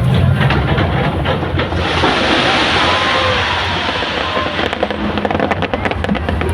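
Fireworks display with a steady hissing rush through the middle and a quick run of sharp crackles near the end, over crowd noise and wind on the microphone.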